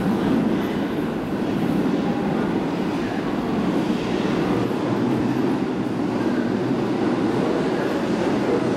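Keihan 8000 series electric train running in the underground tunnel, a steady low rumble with the rattle of wheels on rail echoing off the tunnel walls.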